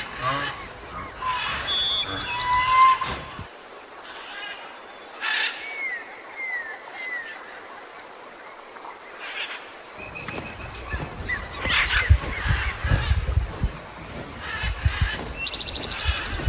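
Birds chirping and calling outdoors, in a string of short whistles and chirps. From about two-thirds of the way in, low thuds and rumbling sit under the calls.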